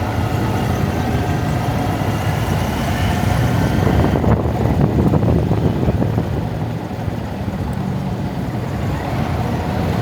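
Honda Monkey's single-cylinder four-stroke engine running at low speed in slow traffic, its note rising slightly a couple of seconds in. A louder rush of noise comes about four seconds in.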